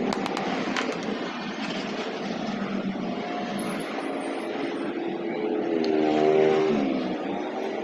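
Motor traffic running past, with a vehicle engine rising and then falling in pitch as it goes by about six seconds in. There are a few sharp clicks at the start.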